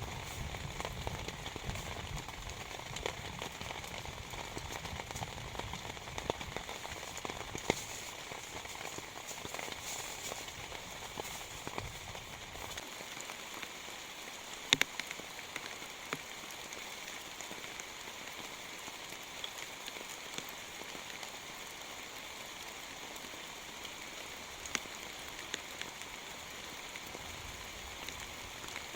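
Rain falling steadily on a surface, with scattered louder single drops striking sharply, the loudest about halfway through. A low rumble under the rain for the first dozen seconds then dies away.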